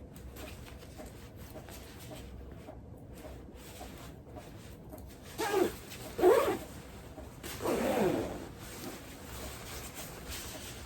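A domestic cat meowing three times, starting about halfway through; the third meow is longer and falls in pitch.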